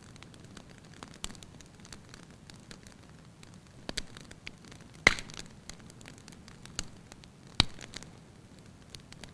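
Wood fire burning in a fireplace, crackling steadily with small snaps and two louder pops about five and seven and a half seconds in.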